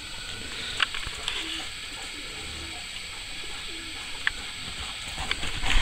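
A bird's short, low cooing calls, a few of them spaced a second or so apart, with a few sharp clicks in between and a louder burst of noise right at the end.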